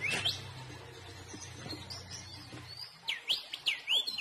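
A bird calling: a quick run of five or six swooping whistled notes in the last second and a half, over a low steady hum that stops about three seconds in.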